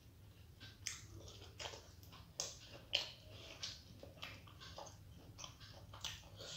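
Close-up chewing and biting of a soft steamed vegetable momo: a series of irregular short clicks, loudest about three seconds in.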